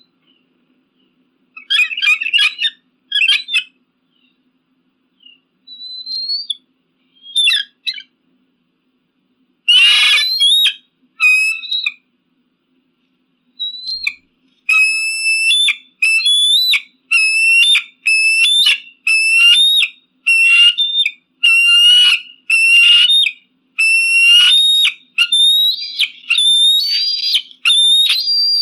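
Eagle calling in high, thin whistled notes: scattered calls at first, one harsher, louder call about a third of the way in, then from about halfway a steady run of repeated piping notes, about one and a half a second.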